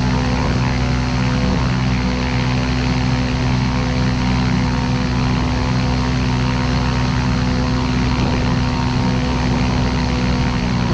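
Ultralight aircraft's piston engine and propeller running loud and steady at constant power.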